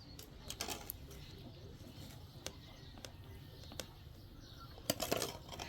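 A few scattered light clicks and knocks over a faint background, with a quick cluster of them near the end.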